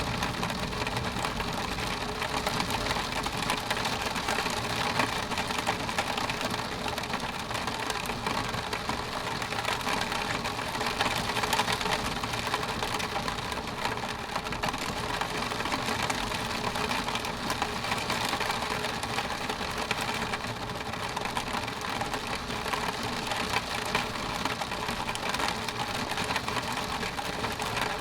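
Steady rain falling on a window pane: an even hiss with dense, rapid small ticks of drops striking the glass.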